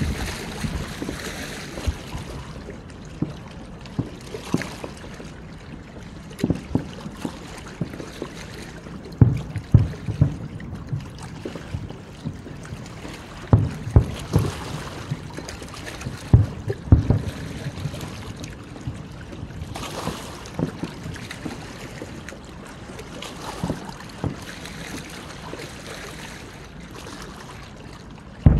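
Aerial fireworks shells bursting: irregular deep booms and bangs, several coming in quick pairs, over a steady background noise.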